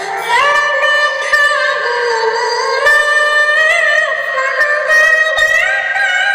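A high, pitched-up synthetic singing voice, Talking-Tom style, sings a sholawat melody in long held notes with short slides between them, over light music.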